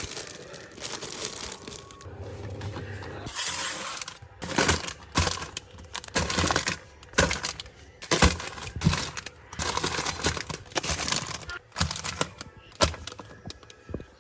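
Groceries being unpacked and put away: packets and bags rustling, with many irregular clicks, knocks and clatters as containers and items are set down.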